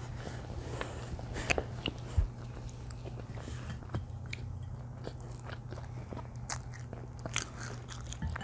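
Close-up chewing and biting while eating pizza and cheese sticks: scattered short wet smacks and crunches, over a steady low hum.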